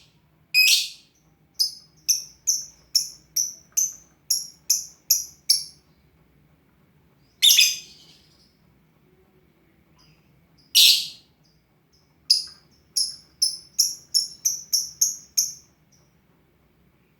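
Lovebird calling: a few loud, harsh screeches, and two runs of short, sharp, high chirps at about two to three a second.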